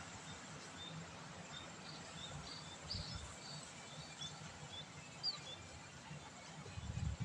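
Steady hiss of light rain on a wet road, with short, high chirps of small birds scattered through the middle. A brief low rumble comes near the end.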